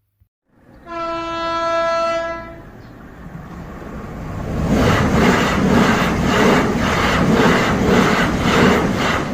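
Train horn sounding one steady blast, then a train's wheels clattering rhythmically over rail joints, about two clacks a second, growing louder as it passes.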